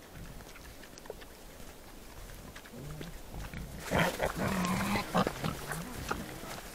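Wild boars grunting, several overlapping low calls that start about three seconds in, with louder, harsher calls around four to five seconds in.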